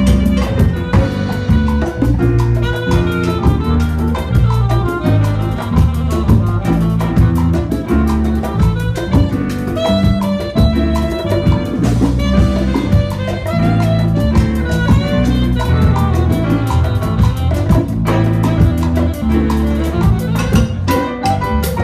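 Live Latin big band playing a salsa arrangement of a jazz standard: horn section, piano and bass over congas, timbales and drum kit, with a steady rhythm.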